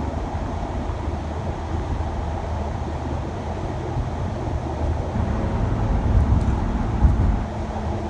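Shuttle van driving, a steady low engine and road rumble, with a short thump about seven seconds in.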